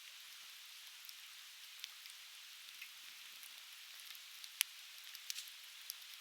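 Conifer firewood burning, crackling with scattered sharp pops, the loudest a little past halfway, over the steady hiss of a river's murmur.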